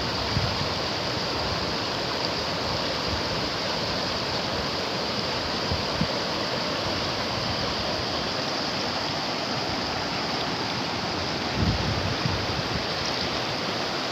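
Rain falling steadily, an even hiss. Low gusts of wind buffet the microphone near the end.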